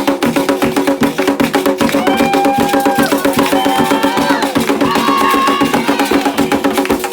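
Candomblé ceremonial drumming: fast, dense, steady percussion strokes. A voice sings a few long held notes from about two seconds in until near the end.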